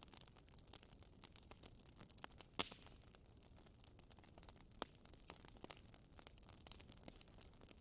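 Wood fire crackling softly in a fireplace, with irregular sharp pops and snaps over a faint hiss; the loudest pop comes a little over two and a half seconds in.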